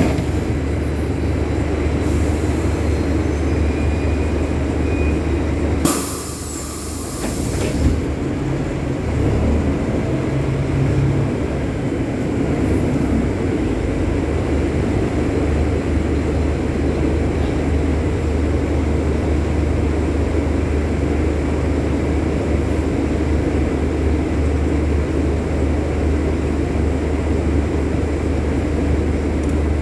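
Scania city bus engine running steadily with a deep, even drone. About six seconds in, a short burst of compressed-air hiss lasts a couple of seconds while the engine note drops, then the drone picks up again.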